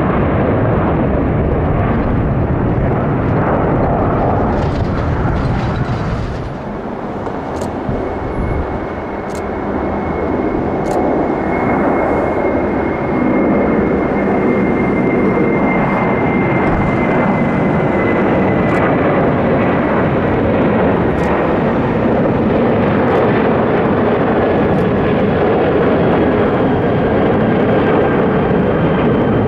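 Jet airliner passing close by: a loud, steady rush of engine noise with a high whine that slowly drops in pitch.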